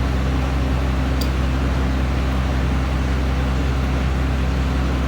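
Steady low mechanical hum of a running motor, constant in pitch and level throughout.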